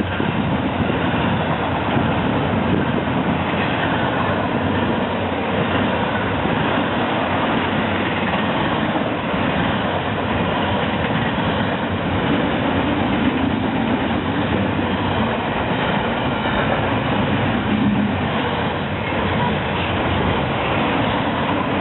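Train rolling past on the track close by: a loud, steady rumble of wheels on rail that keeps up without a break.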